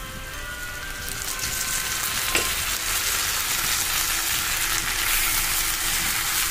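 Sliced onions, shallots and green chillies frying in oil in a nonstick pan: a steady sizzle that grows louder about a second in, with a single knock about two and a half seconds in and a spatula stirring near the end.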